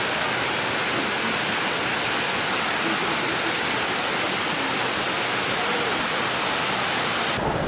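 Steady rush of flowing water from a stream and waterfall. The high hiss drops away abruptly just before the end.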